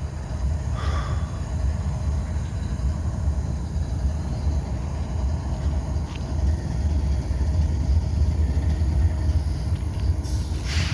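Diesel freight locomotives idling on a stopped train: a steady low rumble, with a short burst of hiss near the end.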